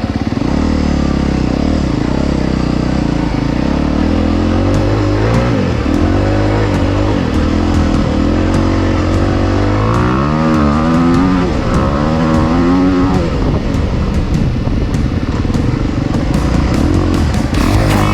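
Honda CRF250 dirt bike's 250cc four-stroke single-cylinder engine running, its pitch rising and falling as the throttle is blipped, with several rev swells about halfway through.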